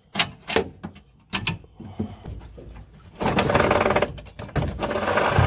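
Hand tools working fasteners in a truck's engine bay: scattered metal clicks and knocks, then two stretches of rapid ratcheting, each about a second long, as bolts are run out.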